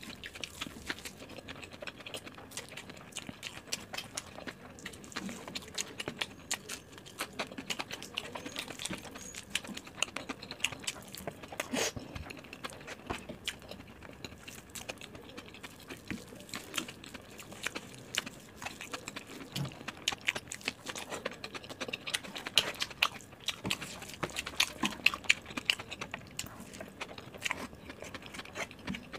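Chewing and wet mouth sounds of someone eating soft rice, dal and mashed potato by hand, with many short irregular clicks and smacks and the soft squish of fingers mixing rice on a plate.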